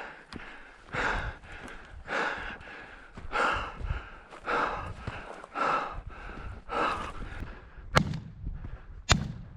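A hunter breathing hard, with loud gasping breaths about once a second, while chasing running chukar on foot. Near the end come two shotgun shots about a second apart.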